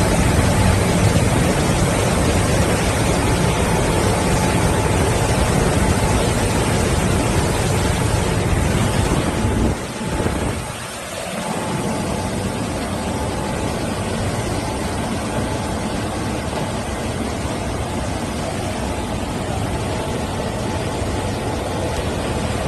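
Tunnel car wash machinery running, a loud steady rushing noise from the wash equipment. There is a faint steady hum, and the noise drops briefly about ten seconds in before carrying on a little quieter.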